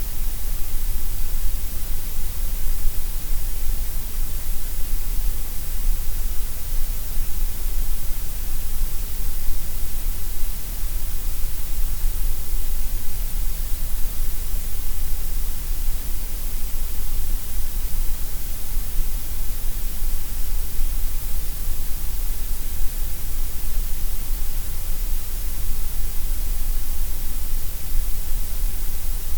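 Steady, unchanging gray noise: an even synthetic hiss, heavier in the deepest lows and in the highs than in the middle.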